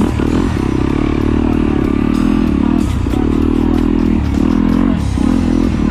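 Trail motorcycle engine running under changing throttle, its note dipping briefly several times and picking up again.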